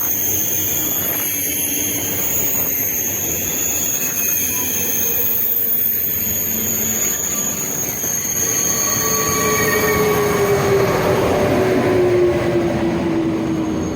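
A train moving through the station with a steady high-pitched whine throughout. From about nine seconds in, a lower tone slides steadily down in pitch as the sound grows louder.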